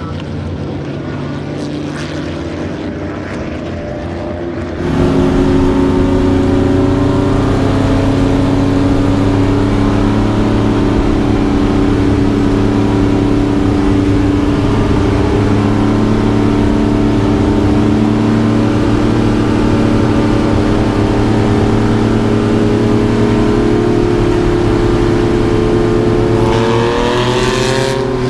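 Corvair race car's air-cooled flat-six engine running at steady speed. It is quieter for the first few seconds, then turns suddenly loud about five seconds in, and its pitch rises near the end as it accelerates.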